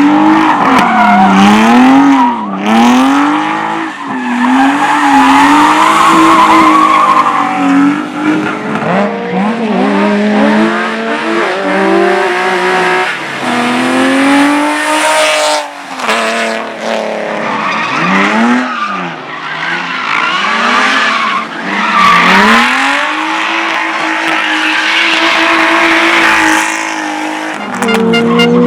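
Competition car's engine revving hard and dropping back over and over as it is thrown through slalom gates, with tires squealing and skidding.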